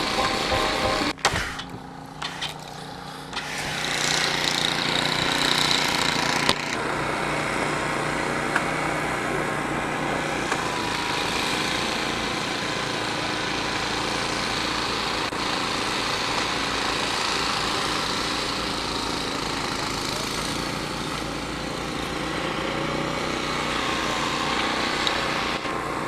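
A small engine running steadily over a rushing outdoor noise.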